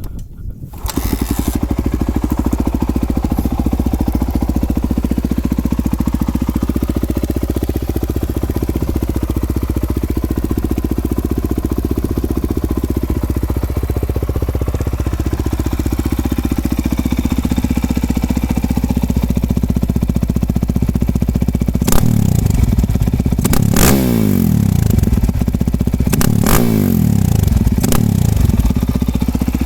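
Suzuki DR-Z400's single-cylinder four-stroke engine, through an FMF PowerCore 4 full exhaust, catches about a second in and idles steadily. In the last several seconds it is revved four times in quick blips, each rev falling back to idle.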